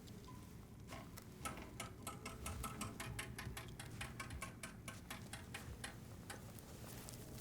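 A run of light, sharp clicks, about four a second, starting about a second in and stopping near the end.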